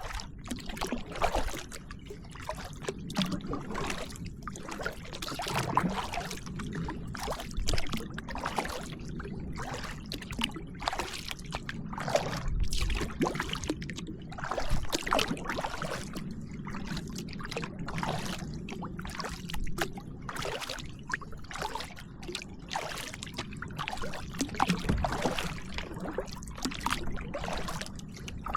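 Kayak paddling: the paddle blades dip and splash in the water over and over, and water trickles off the blades between strokes.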